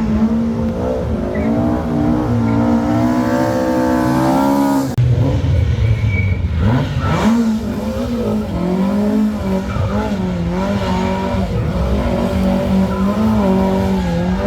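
Rally car engine revving hard and dropping back again and again as the car works through a slalom, with an abrupt change in the sound about five seconds in.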